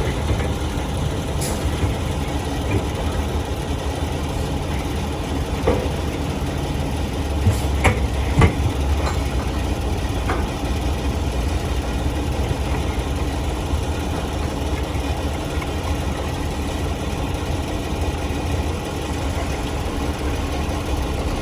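Heavy diesel earthmoving machinery engine running steadily with a low drone. A few short sharp metallic knocks come between about six and ten seconds in.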